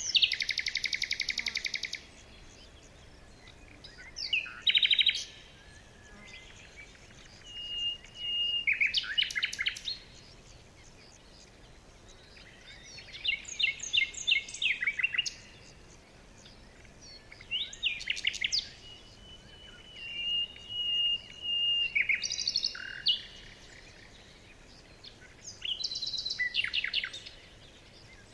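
Songbirds singing, one phrase every few seconds with short quiet gaps between. The phrases are fast, buzzy trills and chirp runs, and twice a long, thin, steady whistle.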